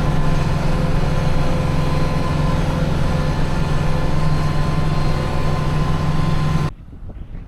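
Vehicle engine running steadily with an even hum, cutting off abruptly near the end; then gusty wind buffets the microphone.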